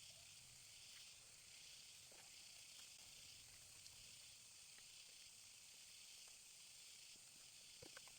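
Faint, steady high-pitched hiss, with a few light clicks near the end.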